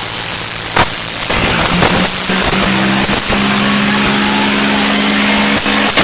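Tractor engine running hard and steadily. Its pitch rises about two seconds in and then holds, with a few sharp knocks over it.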